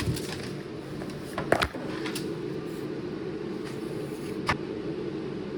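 Steady low hum of workshop background noise, with a few sharp clicks and knocks from parts being handled: a quick cluster about a second and a half in and a single click a few seconds later.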